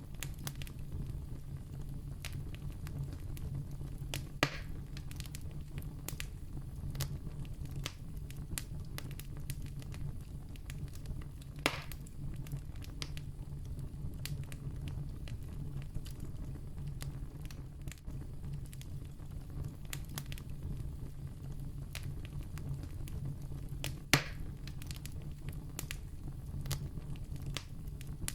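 Wood campfire crackling: many small ticks over a steady low rumble, with three louder pops, about four seconds in, near twelve seconds and about twenty-four seconds in.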